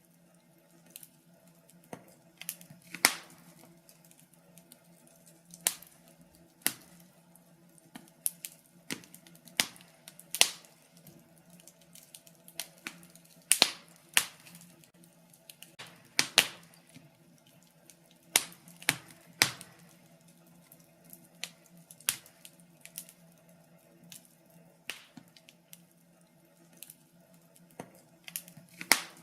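Wood fire in a fireplace crackling, with irregular sharp pops and snaps at no steady rhythm, a few of them much louder than the rest.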